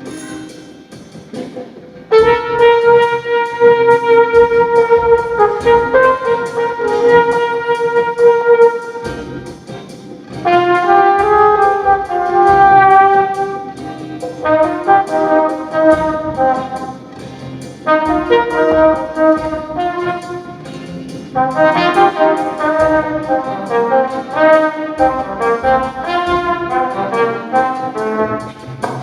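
Flugelhorn solo over a soft live band: long held notes and slow melodic phrases, the first entering about two seconds in, with short breaths between phrases.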